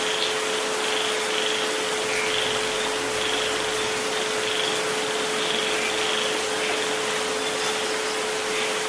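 Steady rain hiss with a continuous pure tone, the 432 Hz healing frequency, held beneath it without change.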